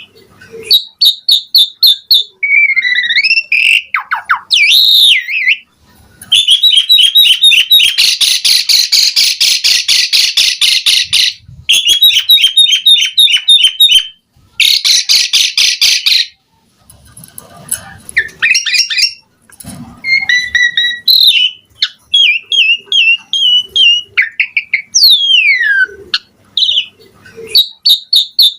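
Asian pied starling (jalak suren) singing a loud, varied song of clear whistles, falling slides and fast chattering note trains. The densest, rattling chatter comes from about six to sixteen seconds in, with brief pauses between phrases.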